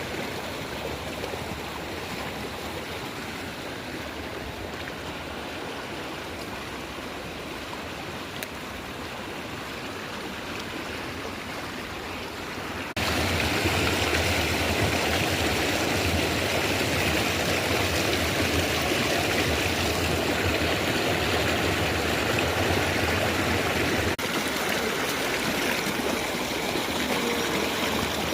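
Steady rush of flowing water, like a stream. It jumps suddenly louder about halfway through and eases slightly later on.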